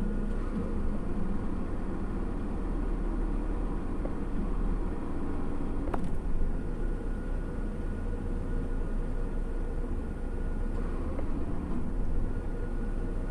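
Steady low rumble of a parked vehicle's engine idling, heard from inside the cabin, with a short click about six seconds in.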